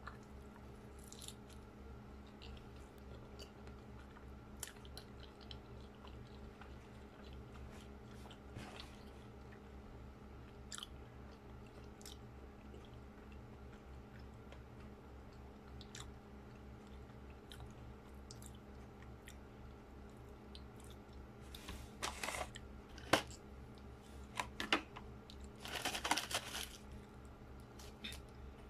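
Close-up chewing of soft baked sushi, with scattered small wet mouth clicks over a steady low hum. Two louder bouts of crisp crackling come near the end, as a sheet of roasted seaweed is handled and folded.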